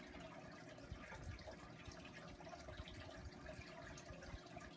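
Near silence: faint room tone and microphone hiss with a steady low hum.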